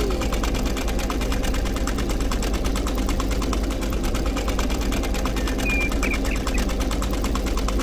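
Small electric motor spinning a plastic propeller on a model, running steadily with a rapid, even rattle.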